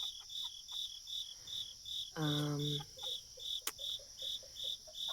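Insects, crickets by the sound of it, chirping in an even rhythm of about three chirps a second over a steady high buzz. A brief low held call comes about two seconds in, followed by faint soft pips and a single sharp click.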